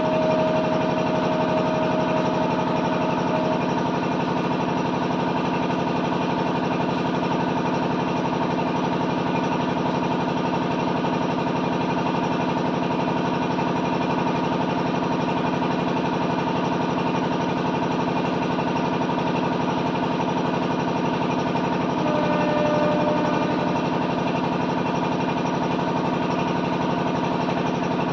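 An engine idling steadily and evenly, with a brief higher tone over it near the start and again about 22 seconds in.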